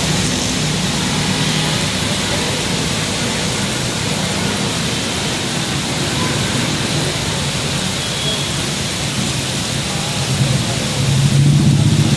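Steady hiss of heavy rain with low road-traffic rumble underneath; a motor vehicle's engine grows louder near the end.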